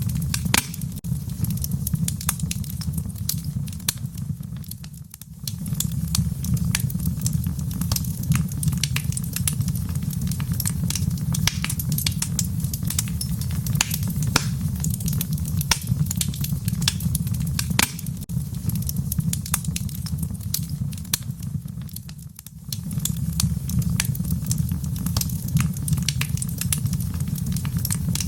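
Wood fire burning in a fireplace: a steady low rumble with dense, sharp crackles and pops from the burning logs. The low rumble fades out briefly twice, about five seconds in and again a little after twenty seconds, while the crackling carries on.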